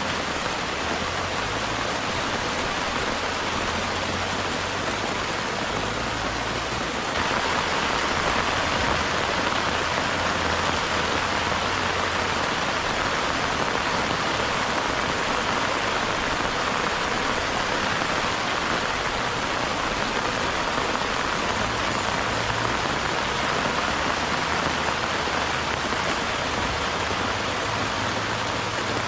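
Heavy rain falling steadily, with a dense hiss of drops that grows heavier about seven seconds in.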